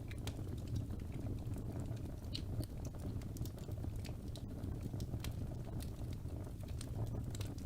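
Wood fire crackling: irregular sharp pops and snaps over a low steady rumble of the burning logs.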